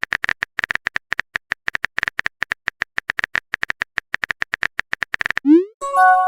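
Phone keyboard typing sound effect: a rapid, uneven run of light taps, several a second, that stops near the end. A short rising swoosh and a brief electronic chime follow, like a text message being sent and arriving.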